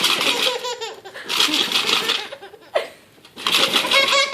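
A baby laughing hard in three bursts of giggles, each about a second long, with short pauses between them.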